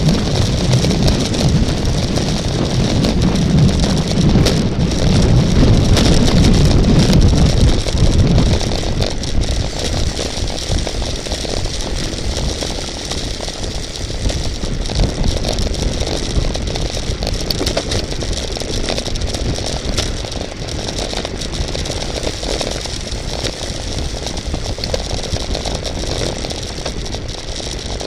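Steady rushing wind and road noise during a bicycle race, with a heavy low rumble that is loudest for the first eight seconds and then eases off.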